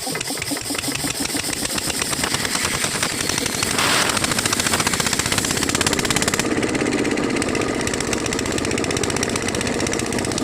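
Engine running with a fast, even pulsing, getting somewhat louder about four seconds in.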